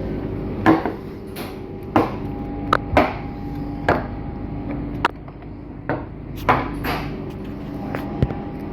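About a dozen sharp knocks and clunks at uneven intervals, roughly one every half second to a second, over a steady mechanical hum.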